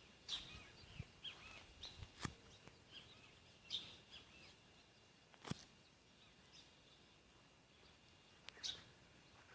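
Birds chirping softly in short, scattered calls, with a few sharp clicks and a faint steady high tone underneath.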